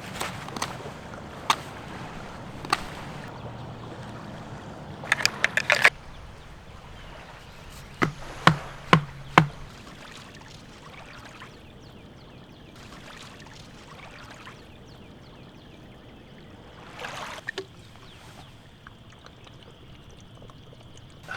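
Scattered sharp knocks and clicks over a steady background hiss: a quick rattle of clicks about five seconds in, then four evenly spaced hollow knocks about eight seconds in.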